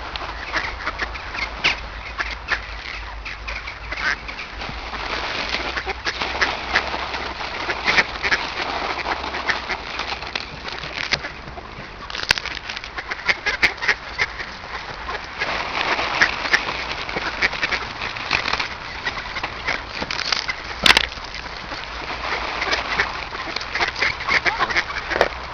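A crowded flock of ducks quacking and calling over one another without pause, a dense chatter of many short calls. One sharp click near the end.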